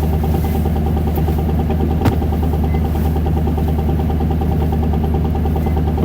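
Isuzu Erga city bus's diesel engine, a 5.2-litre four-cylinder, running at a steady speed, heard from inside the bus, with one sharp click about two seconds in.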